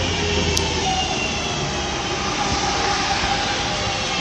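Class 323 electric multiple unit starting away from the platform, its traction motors whining with several steady tones over the running noise. A brief sharp click about half a second in.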